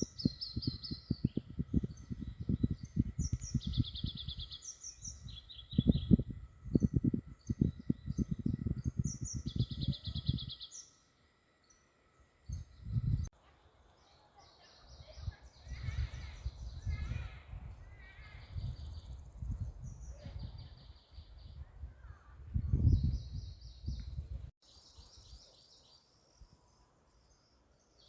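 Small songbirds singing short, repeated high trilling phrases again and again. Louder, irregular low rumbling and bumping on the phone's microphone runs under them for most of the time and drops away near the end.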